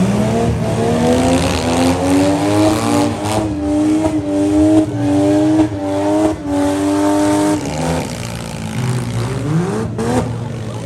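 Demolition derby vehicle engine revving hard: it climbs in pitch, holds high with brief dips, drops off about eight seconds in, then revs up again near the end. A few sharp knocks sound over it.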